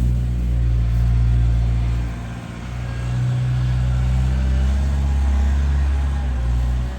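Skid steer engine running steadily with a low hum, dipping briefly in level about two and a half seconds in.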